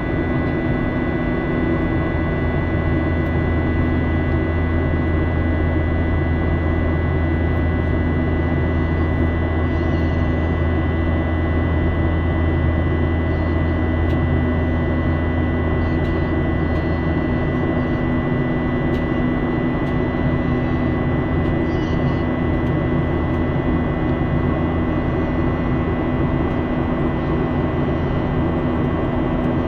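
Steady jet engine drone and airflow roar heard inside an airliner cabin during the climb, with several steady hum tones over the noise; the deepest hum eases off a little over halfway through.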